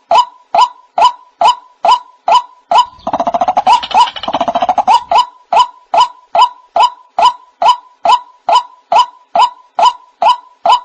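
White-breasted waterhen calling: a short, loud note repeated about twice a second, broken about three seconds in by a rapid chattering run lasting about two seconds, then the repeated notes again.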